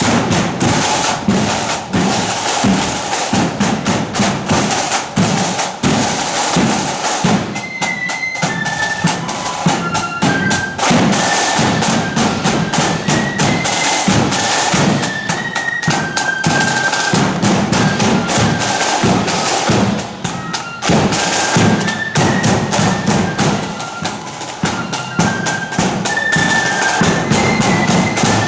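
Marching flute band playing: high flute melody over dense, steady snare and bass drum beats.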